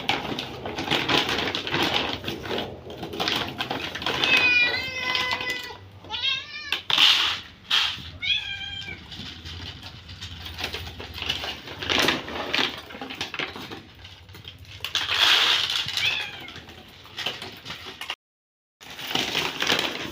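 Hungry domestic cats meowing repeatedly while waiting to be fed, several calls in a row, with rustling and handling noises between them.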